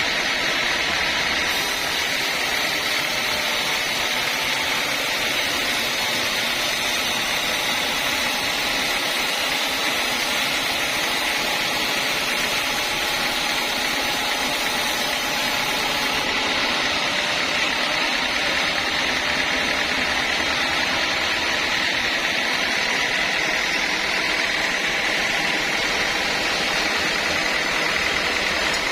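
Sawmill machinery running steadily: a continuous machine noise with a high whine, brighter and hissier from about two seconds in until about sixteen seconds in.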